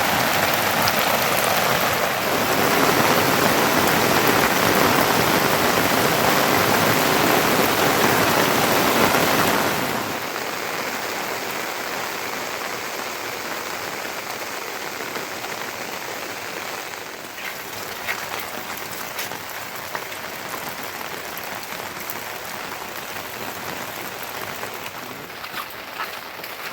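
Heavy rain falling as a dense, steady hiss. About ten seconds in it becomes quieter, and scattered drop-like clicks can be heard through it.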